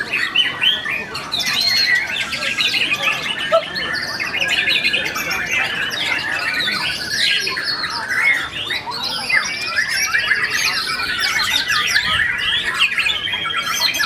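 White-rumped shamas singing in a dense, overlapping chorus of quick whistled phrases and rapid chattering trills.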